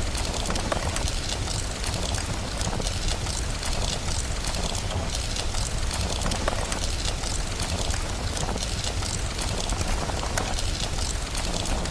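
Steady rain with a low rumble, overlaid with the dense small pops and crackles of a wood fire burning in a fireplace.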